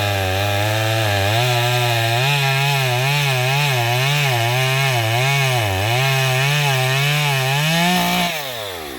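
Chainsaw running at high revs cutting through a log, its pitch dipping and recovering as the chain bites under load. About eight seconds in the throttle is released and the engine note falls away toward idle.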